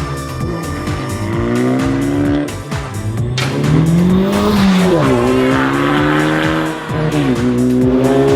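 VW Polo V GTI with a REMUS stainless cat-back exhaust accelerating hard, the exhaust note climbing in pitch and dropping back several times as it shifts gears, over background music with a steady beat.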